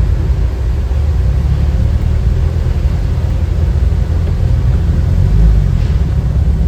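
A car driving on the road, with a steady low rumble of engine and road noise.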